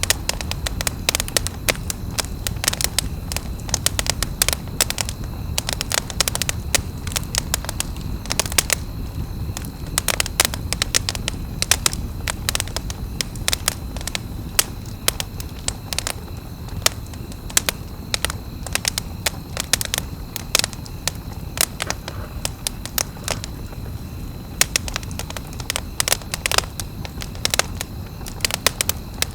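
Wood campfire crackling, with frequent sharp irregular snaps and pops over a low steady rumble of the burning fire.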